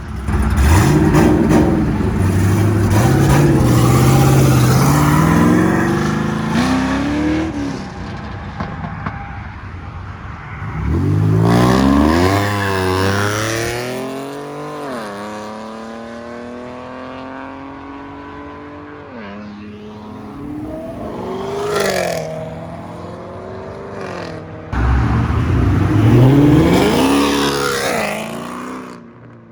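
Performance cars accelerating hard one after another, engines revving up through the gears with audible shifts. The first pull climbs over about seven seconds. A second car revs and shifts around twelve to fifteen seconds in, then runs steadier. A third accelerates near the end.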